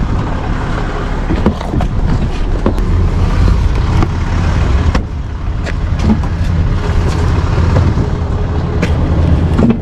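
Tow truck engine running steadily as the truck backs up, with a few scattered light knocks and clicks.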